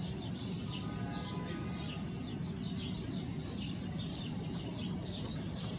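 Small birds chirping, many short falling chirps a few times a second, over a steady low background rumble.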